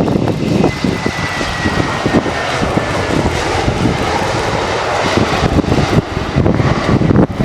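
Airliner's engines running loud and steady as the aircraft passes, with a faint high whine that falls slowly in pitch over the first few seconds. Gusty wind buffets the microphone with irregular low thumps.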